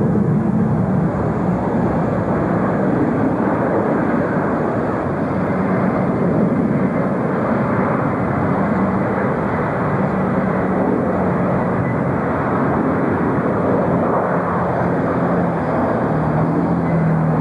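Jet airliner engines running, a loud, steady noise with a faint low hum coming through near the end.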